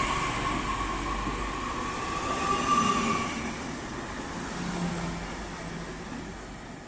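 Electric double-deck regional train pulling away past the platform: rolling rumble of the coaches with a steady high electric whine that fades out about three seconds in. The whole sound grows gradually fainter as the train moves off.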